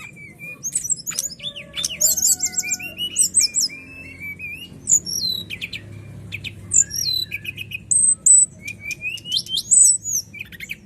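Brown-chested jungle flycatcher (sikatan rimba dada coklat) singing a continuous, varied song of quick high whistles, sharp up- and down-slurred notes and short rapid trills.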